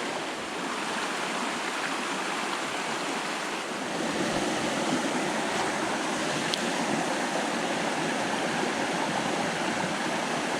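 Creek water running over rocks, a steady rushing hiss that gets slightly louder about four seconds in.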